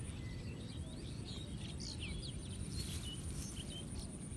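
Outdoor garden background: scattered short, faint small-bird chirps over a steady low rumble, with a thin high steady tone in the second half.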